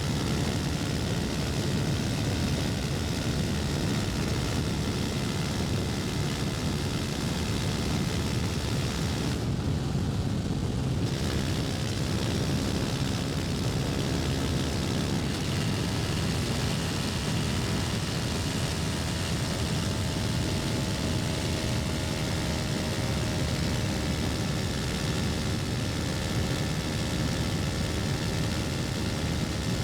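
KTM 250 Duke's single-cylinder engine running steadily at a cruise, with a broad rush of wind noise over it. The wind noise drops away briefly about ten seconds in.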